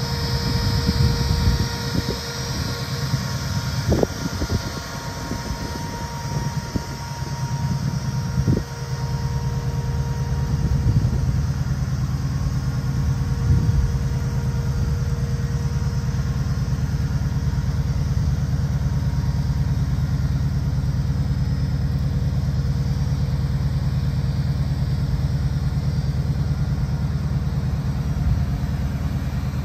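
1973 Ford Bronco's engine idling steadily, with two sharp knocks about four and eight seconds in.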